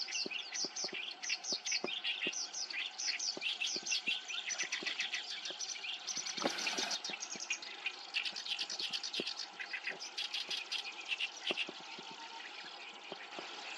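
Black-browed reed warbler singing: a fast, continuous chatter of varied, high, scratchy notes that tails off near the end. A brief rustling burst comes about halfway through.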